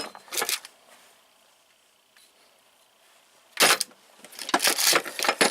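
Metal hand tools clinking and clattering in a tool box drawer as they are handled: a couple of clicks just after the start, then a run of clattering from about three and a half seconds in.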